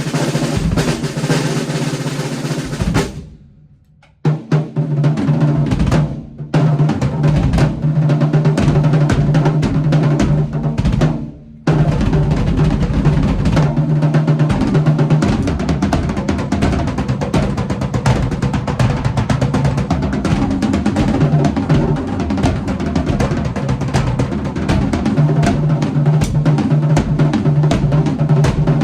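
Drum kit played at full tilt around a Tama Bubinga 14x6.5-inch snare drum with an Evans Genera head, with dense snare strokes and rolls over bass drum. The playing drops out briefly about three to four seconds in and again around eleven seconds, then runs on without a break.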